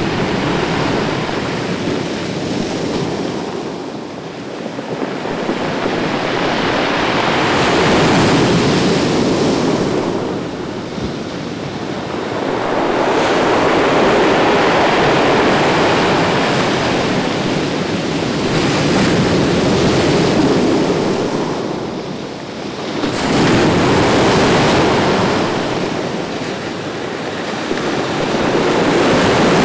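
Ocean surf breaking on a beach, the wash swelling and fading every five to six seconds, with some wind buffeting the microphone.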